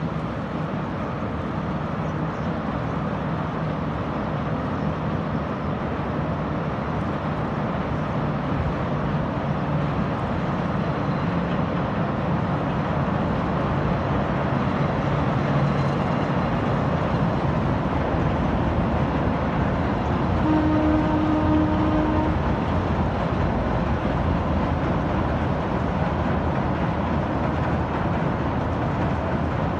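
Kurobe Gorge Railway narrow-gauge train, pulled by two electric locomotives, running across a steel truss bridge: a steady, continuous train noise that grows slightly louder. A short pitched tone sounds for about two seconds roughly two-thirds of the way through.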